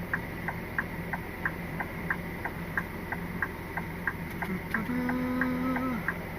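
Lorry cab indicator ticking at about three clicks a second over the low drone of the cab, with a short steady hummed tone about five seconds in.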